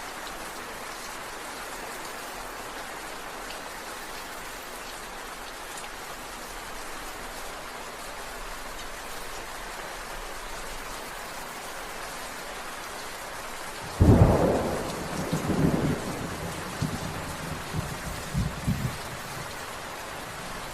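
Steady rain falling, and about two-thirds of the way through a sudden thunderclap that rumbles on in a few rolling peaks for several seconds.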